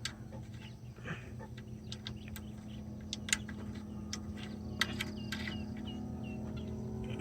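Faint background: a few short, high bird chirps and scattered light clicks over a low steady hum.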